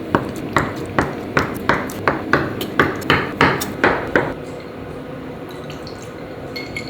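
A kitchen knife chopping on a cutting board: about a dozen sharp, even strokes, roughly three a second, that stop about four seconds in.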